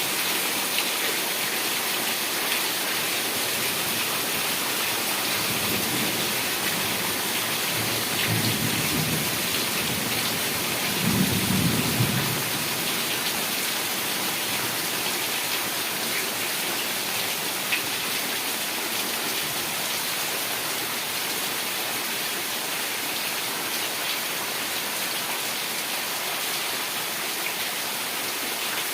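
Heavy rain falling steadily, with low rolls of thunder starting about five seconds in and recurring twice, the third and loudest around twelve seconds in.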